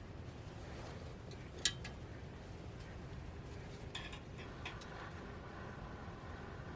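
One sharp click or clink about a second and a half in, then a few lighter clicks, over a low steady rumble.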